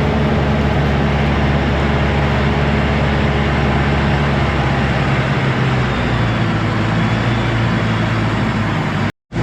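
LS MT473 tractor's diesel engine running steadily under work while the grapple clears brush, its note shifting about six seconds in. The sound drops out abruptly for a moment near the end.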